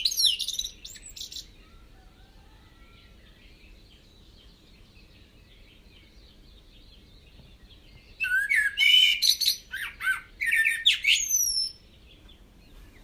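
Birds calling and warbling in two loud bursts of chirps and gliding notes, one at the start lasting about a second and a half and another from about eight seconds in lasting nearly four seconds. Fainter calls sound over a quiet background between them.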